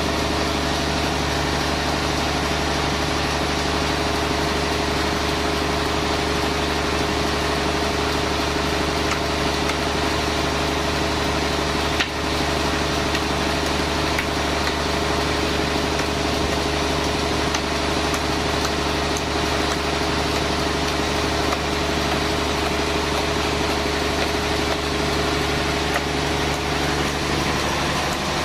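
Sawmill machinery running steadily with an even engine-like hum. A single sharp click sounds about twelve seconds in.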